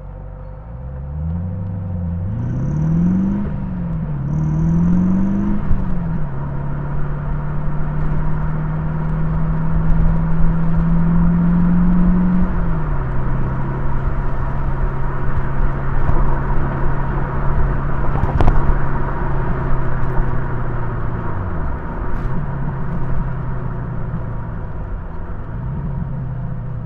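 Morgan Plus 8's Rover V8 heard from inside the car, pulling hard with the revs climbing and dropping back at two quick gear changes in the first six seconds. It then holds a steady pull with revs slowly rising, changes up again about halfway, and runs steadily before easing off and picking up twice near the end, over a constant road rumble.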